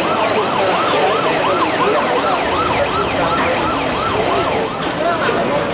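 Emergency vehicle siren on a fast yelp, its pitch rising and falling about two to three times a second. It fades a little near the end.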